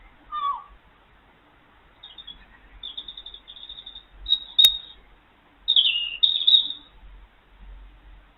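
Birds calling: a short falling call right at the start, then runs of quick high chirps and trills, with one sharp click about halfway through.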